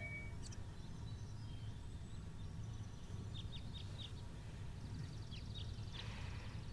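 Faint birds chirping in short, quick downward calls, in two small clusters a few seconds apart, over a low steady background hum.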